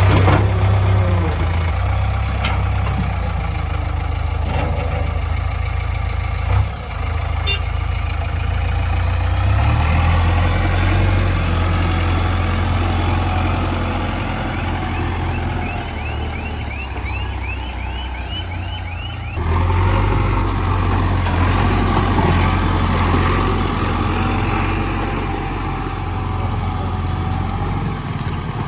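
Diesel engine of a JCB 3DX backhoe loader running steadily while it loads mud into a tipper truck. There is a single knock about six seconds in and a run of short high squeaks, about two a second, some fifteen seconds in. The engine gets louder at about nineteen seconds.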